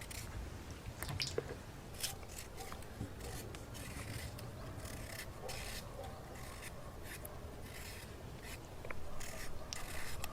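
A series of short, irregular scraping strokes, about one or two a second.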